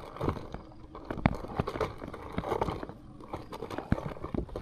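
Gear being rummaged through in a pack: irregular knocks, clicks and rustles, with a sharper knock about a second in and another near the end.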